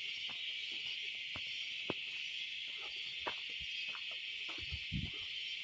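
Steady, unbroken high-pitched chorus of forest insects, with a few faint clicks and a couple of low thumps near the end.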